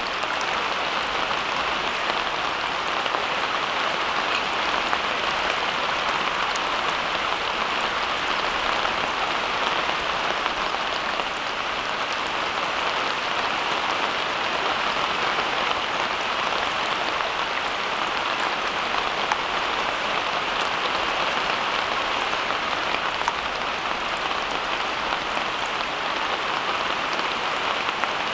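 Steady rain falling: a dense, even patter that stays level throughout.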